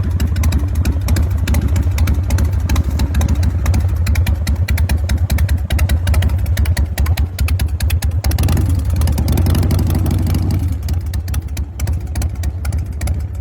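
A motorcycle's S&S 107 cubic-inch V-twin engine running, its firing pulses coming fast and evenly with a heavy low end. The sound starts and stops abruptly.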